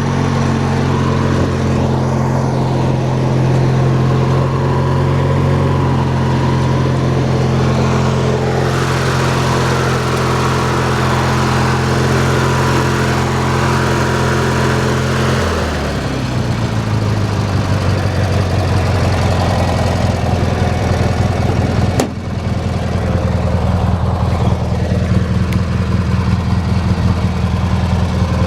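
Riding lawn tractor's horizontally opposed twin-cylinder engine running steadily. About halfway through its speed drops, and it runs on at a lower, slower pace.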